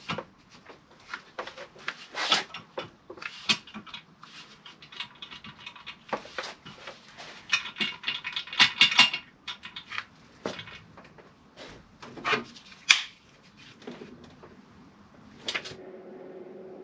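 Metal tools and engine parts clicking, knocking and rattling in irregular handling noises as components are refitted to a Ford Mondeo ST220 engine, with a busier run of quick clicks about eight seconds in.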